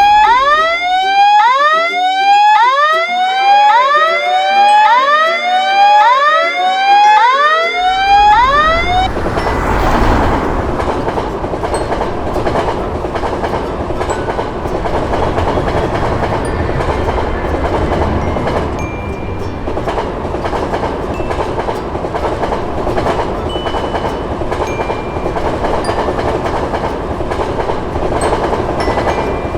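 A rapid string of repeated, overlapping tones, each sweeping in pitch, for about the first nine seconds, then a train passing: a steady, loud rushing rumble for the rest.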